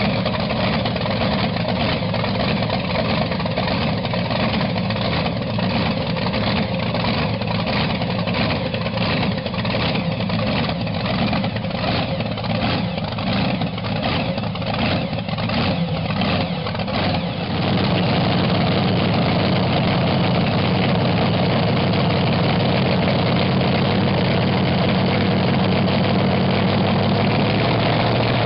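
Supercharged Hemi V8 race engine running on its first start, idling with an uneven, pulsing beat. About two-thirds of the way through it settles into a steadier, slightly louder run.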